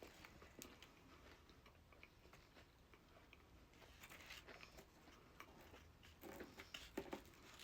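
A person chewing and biting food close to the microphone, with soft crunches and wet mouth clicks. It is quiet at first and louder about four seconds in and again near the end.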